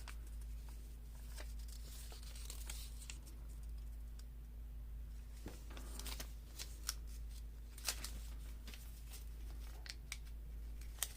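Faint rustling and scattered light clicks of paper sheets being sorted and handled, over a steady low hum.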